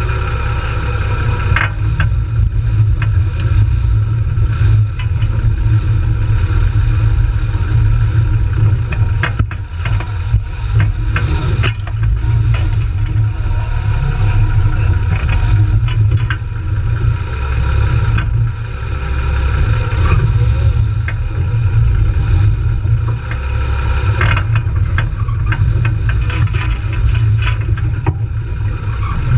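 A jeep's engine running steadily at low revs, with scattered clicks and knocks.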